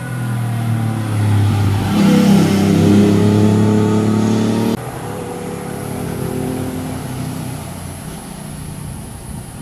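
Vehicle engine accelerating hard with its pitch climbing. About five seconds in it cuts abruptly to a quieter engine sound that fades away as the vehicle passes.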